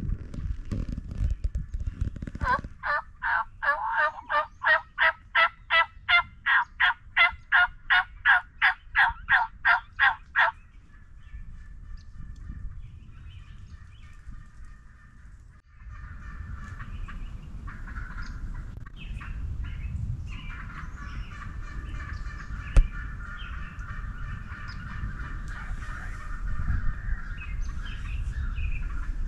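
Wild turkey yelping: a long, loud run of about twenty evenly spaced yelps, roughly two or three a second, that stops about ten seconds in. Softer, more run-together turkey calling follows, with a single sharp click near the end.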